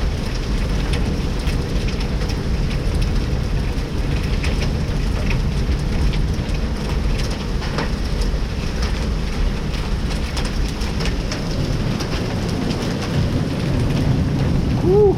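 Heavy downpour of rain and hail, a steady rushing with scattered sharp ticks of hailstones striking. Just before the end a short tone rises and falls.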